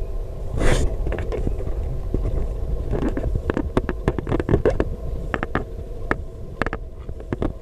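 Heavy low wind rumble on the microphone outdoors, with a loud gust-like burst a little under a second in. A string of irregular sharp clicks and crackles runs through the middle and latter part.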